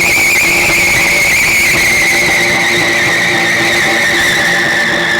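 Car doing a burnout: the tyres squeal in one long continuous note whose pitch slowly falls, over the engine held at steady high revs.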